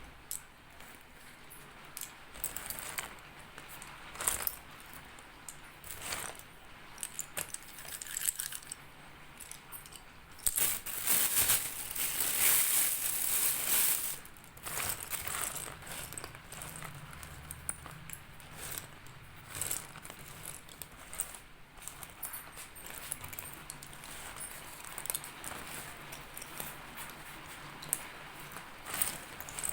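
Slate pencils being crunched close to the microphone: a string of sharp cracks and gritty crackles, with a denser, louder stretch of grinding a third of the way in.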